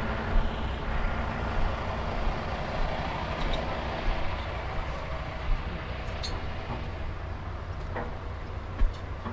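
Truck driving along the road: a steady engine and road rumble, with a few faint clicks and a short knock near the end.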